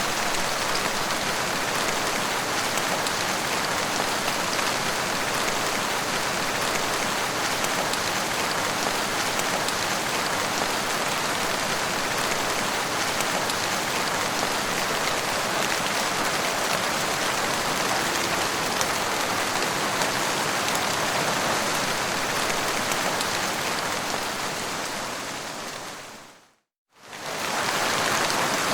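Steady rain falling, an even dense hiss. About 25 seconds in it fades quickly to silence and comes back a second or so later.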